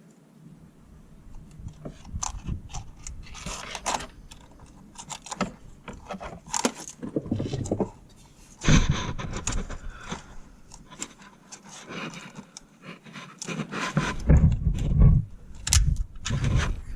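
Hands working under a car, fastening a wiring harness with zip ties: irregular clicks, scrapes and rattles of the ties and wiring, with a few heavier dull thumps in the middle and near the end.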